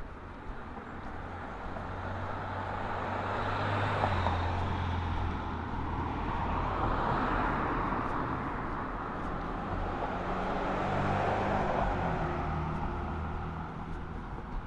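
Road vehicles passing one after another: tyre and engine noise swelling and fading about three times.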